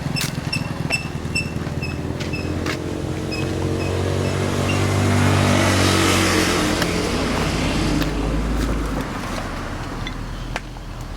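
A motor vehicle's engine running, its sound swelling to a peak about five or six seconds in and then fading, as a vehicle passing by does. An evenly repeated high chirp sounds over the first few seconds.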